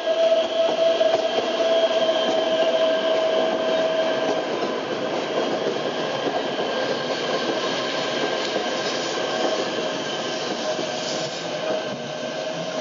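Metre-gauge Centovalli Railway electric train running close past on the adjacent track, its wheels squealing in a steady high whine through the curve over the rumble of the running gear; the sound eases off slightly toward the end.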